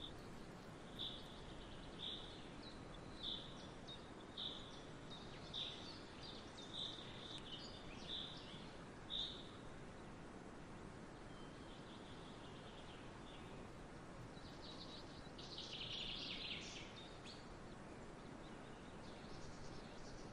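Faint bird calls: a short chirp repeated about once a second for the first half, then a brief burst of twittering about fifteen seconds in, over steady background noise.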